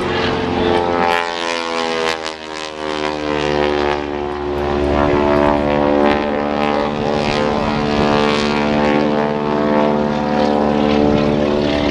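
Aerobatic propeller airplane's engine and propeller droning loudly as it flies a pass, the pitch sliding down over the first few seconds, then holding fairly steady.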